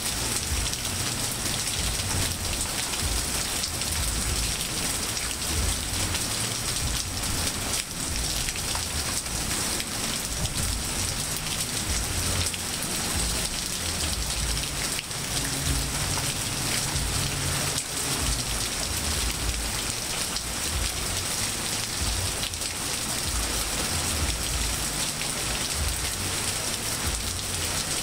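Steady rain falling on leaves, grass and pavement, an even dense hiss with an uneven low rumble underneath.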